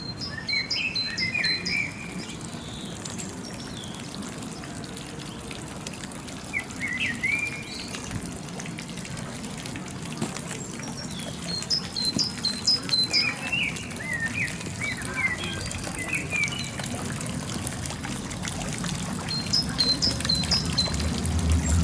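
Songbirds singing short, quick phrases of high chirps, repeated about five times, over a steady rushing background.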